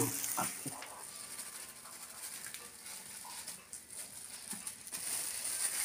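Faint, steady sizzle of food frying in a pan on the stove, with a few light ticks and rustles as flour is poured from a plastic bag into a steel bowl.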